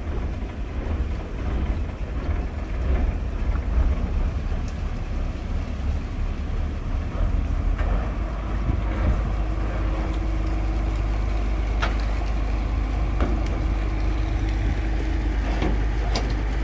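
Engine on a sand-pumping boat running steadily with a low rumble, a steady tone joining about halfway through. A few sharp knocks come near the end.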